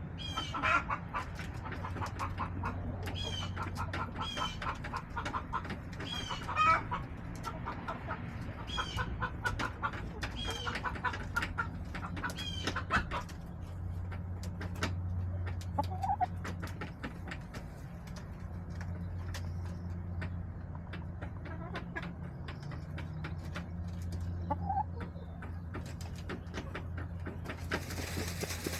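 Backyard hens clucking and calling over and over, busy for about the first half and sparser after that, over a steady low hum.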